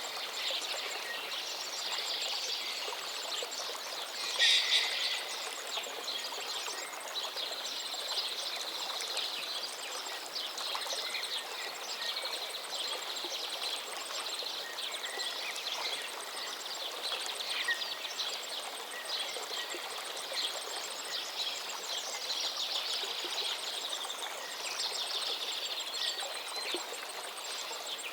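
A river flowing steadily, with many small birds calling and singing over it. One louder bird call comes about four seconds in.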